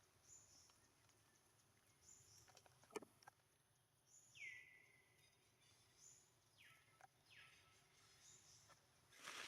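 Faint outdoor ambience with short high chirps repeating about every two seconds, a few whistled calls sliding down in pitch near the middle, and a single click about three seconds in.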